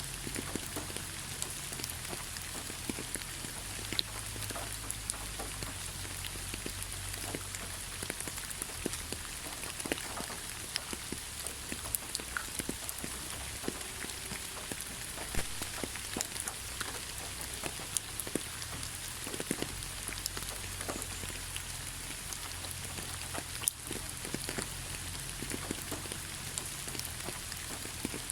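Heavy rain falling steadily, a constant hiss with many individual drops pattering and ticking on surfaces, over a low rumble.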